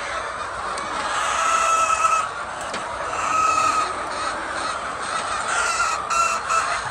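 Chickens calling in a flock: a constant din of clucking, with three drawn-out squawks of about a second each, one about a second in, one in the middle and one near the end.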